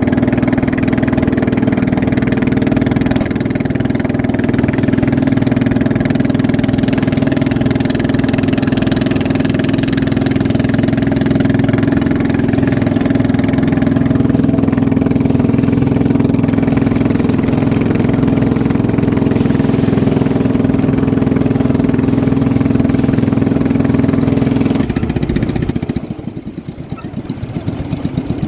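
Boat engine running at steady high speed, then easing off about 25 seconds in, when the sound drops and turns quieter and rougher.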